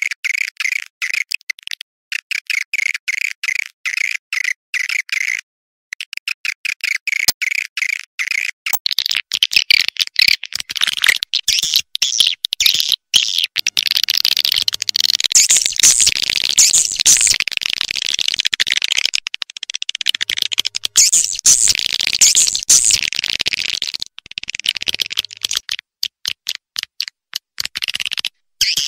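Swiftlet calls: fast trains of rapid, clicking chirps, swelling about nine seconds in to a dense, louder twittering chorus, which thins back to rapid chirping trains near the end. A swiftlet lure call of the kind played to draw swiftlets into a nesting house.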